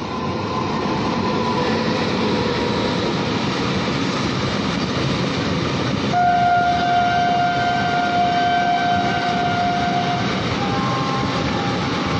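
Very long, heavily loaded freight train rolling past behind an electric locomotive: a steady rumble and wheel-on-rail noise from the passing wagons. Midway a strong steady high tone sounds for about four seconds, followed near the end by a fainter pair of tones.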